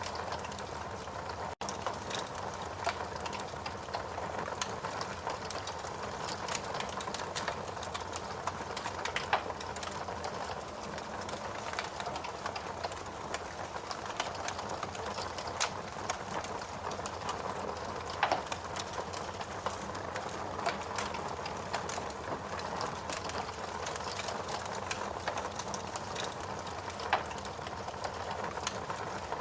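Wood fire burning in a fireplace: a steady soft hiss with frequent, irregular sharp crackles and pops, a few of them louder than the rest.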